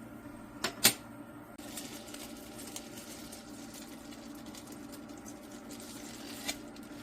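Two sharp clicks a little under a second in, then a faint, steady crackling hiss with fine ticks in it and one more click near the end, over a low steady hum.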